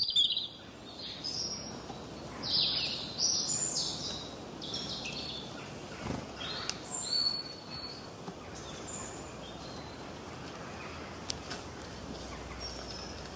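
Small aviary birds, canaries and finches, chirping: many short high calls, thick for the first several seconds, then thinning out over a steady background hiss. There is a single knock about six seconds in.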